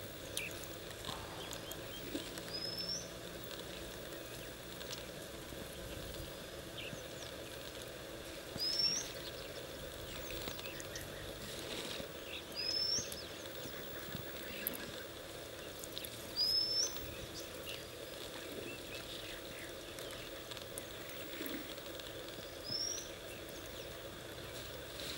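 A bird gives a short, high, upward-slurred whistle five times at irregular intervals of several seconds, over steady outdoor background noise.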